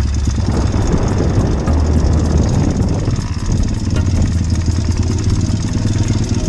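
Small motorbike engine running steadily on the move, a continuous low hum with noise over it.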